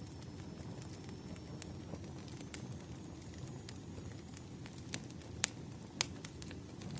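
Campfire crackling: a steady low rumble of burning wood with scattered sharp pops, the loudest about five and a half and six seconds in.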